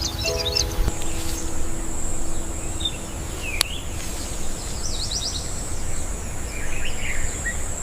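Outdoor nature ambience: birds chirping on and off over a low rushing noise bed, with a steady high-pitched drone starting about a second in. Soft background music fades out in the first second or so.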